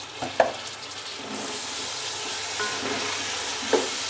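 Sliced tomatoes sizzling in hot oil in a pot. The sizzle gets louder about a second in, and two sharp knocks of a wooden spatula against the pot come near the start and near the end.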